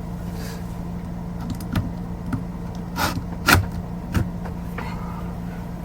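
A few sharp knocks and bumps, the loudest about three and a half seconds in, as someone climbs into a camper van's overhead bunk, over a steady low hum.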